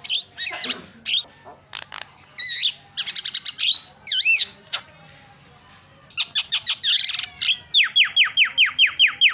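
Javan myna (jalak kebo) singing a varied, chattering mix of whistles, warbled notes and harsh chips. Near the end it breaks into a fast run of repeated downward-sliding whistles, about six a second.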